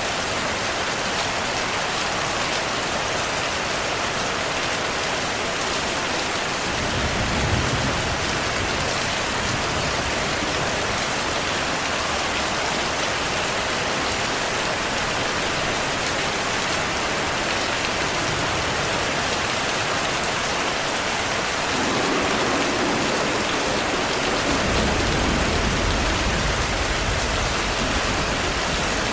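Steady heavy rain falling, with low rumbles of distant thunder rising under it briefly about a quarter of the way in and again through the last third.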